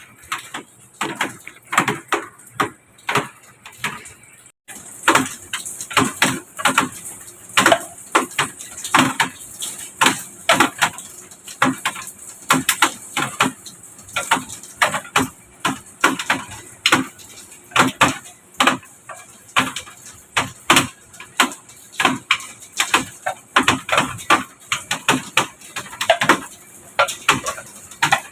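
Irregular knocks and clatters, several a second in places. After a break about five seconds in, a faint steady high hiss runs under them.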